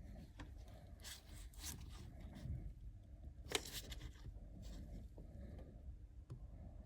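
Faint handling noises: scraping and rustling with scattered sharp clicks, the loudest about halfway through.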